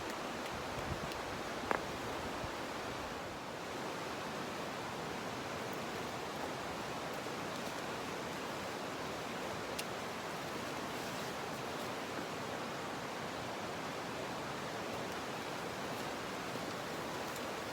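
Steady, even rushing outdoor noise, with a soft knock about two seconds in and a few faint clicks.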